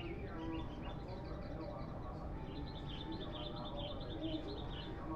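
Sooty-headed bulbuls (kutilang) chirping and singing in quick, high notes, with a rapid run of chirps from about two and a half to four and a half seconds in.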